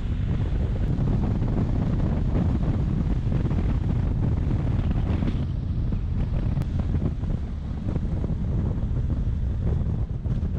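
Wind buffeting the microphone on a moving motorcycle, a steady low rumbling rush.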